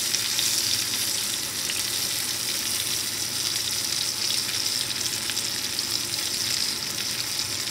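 Breaded chicken tenderloins frying in shallow oil in a ridged pan: a steady sizzling hiss with small crackles.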